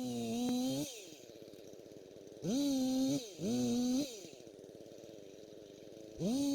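Small two-stroke engine idling with a fast, even putter, revved up several times in short bursts of about a second, each rising quickly, holding a steady pitch and dropping back to idle.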